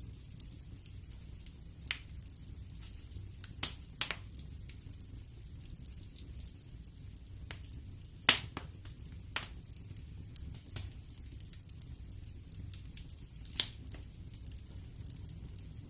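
Wood fire crackling in a fireplace: scattered sharp pops and snaps over a low steady rumble, with a few louder pops about a quarter of the way in, about halfway and near the end.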